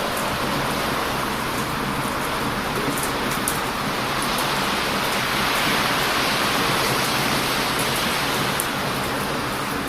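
Heavy surf breaking on a beach, a steady loud rush of waves, with a few faint crackles from a wood fire.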